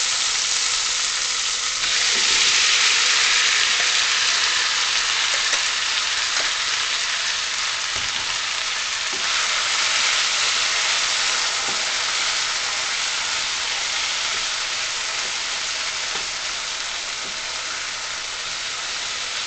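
Marinated, pressure-cooked beef cubes sizzling loudly in hot coconut oil with curry leaves, stirred with a wooden spatula. The sizzle swells about two seconds in and eases slightly toward the end.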